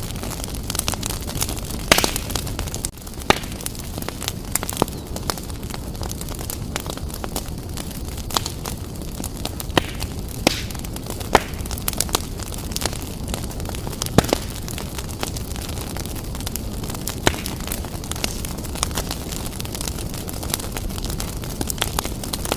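Fireplace fire burning vigorously: a steady low rush with frequent sharp crackles and pops at irregular intervals.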